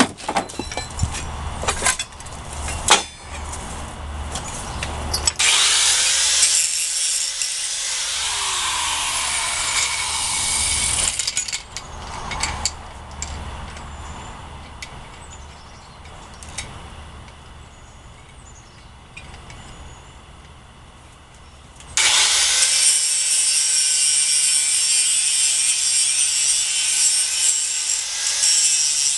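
Angle grinder grinding a mild-steel axe head, in two spells: one from about five seconds in lasting some six seconds, then again from about twenty-two seconds on. Before the first spell there are knocks and clatter of handling.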